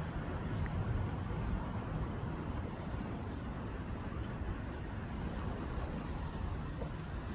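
Outdoor park background: a steady low rumble, with a few faint, high, quick chirps about three seconds in and again about six seconds in.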